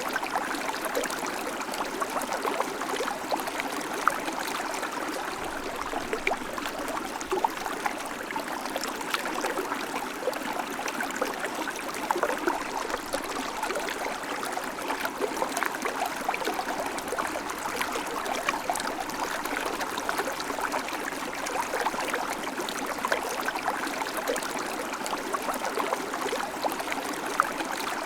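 River water flowing over stones: a steady rushing with many small splashes and trickles throughout.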